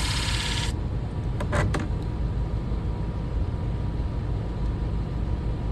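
Shear blade grinding on a motor-driven sharpening machine: the grinding hiss cuts off under a second in as the blade is lifted away, leaving the machine's motor running with a steady low hum. A couple of light clicks follow shortly after, as the blade is handled while the edge is checked for a burr.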